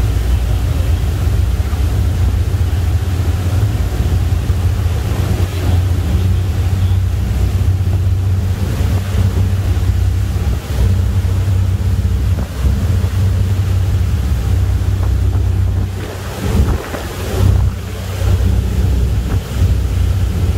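Wind buffeting the microphone and waves washing past the hull of a passenger ferry under way, over the steady low drone of the ship. The wind gusts unevenly in the last few seconds.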